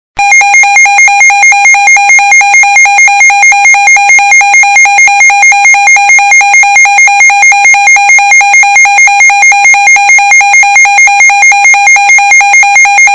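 Emergency alert attention tone: a very loud, harsh electronic two-tone signal that starts abruptly and holds steady, with a rapid warble about four times a second.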